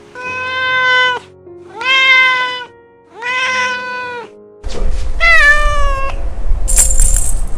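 Cat meowing: three long, drawn-out meows in a row, then a fourth meow that falls in pitch. Faint background music plays throughout, and a low rumble comes in after the third meow.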